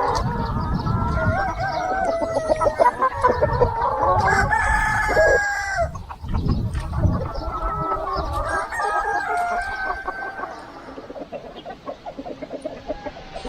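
A flock of free-range chickens clucking and calling over one another, with a rooster crowing about four seconds in; the calling thins out near the end.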